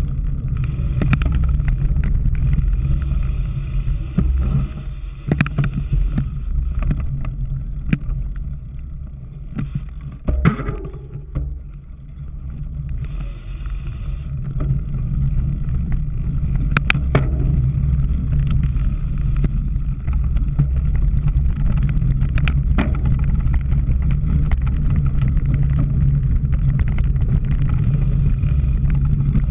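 Wind rumbling over a bicycle-mounted camera's microphone while riding a cyclocross course, with sharp clicks and rattles from the bike over rough ground. The rumble eases for a couple of seconds about ten seconds in, then builds again.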